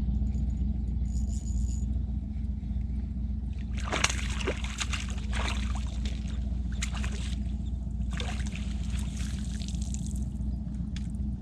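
Lake water sloshing and splashing irregularly, starting about four seconds in, over a steady low drone of distant motorboats.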